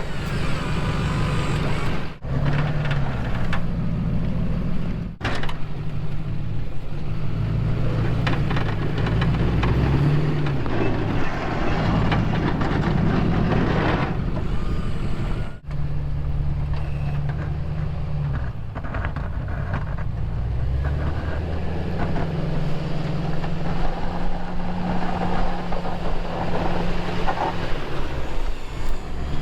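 Snow plow truck's engine running under load, its revs rising and falling repeatedly as it plows.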